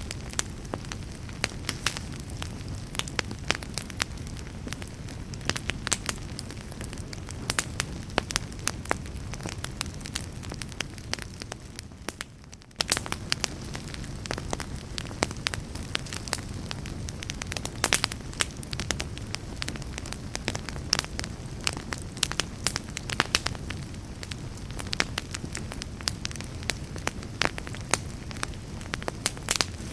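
Campfire burning: a steady low rumble of flames with frequent sharp pops and crackles from the wood. About twelve seconds in the sound briefly fades and then cuts straight back in.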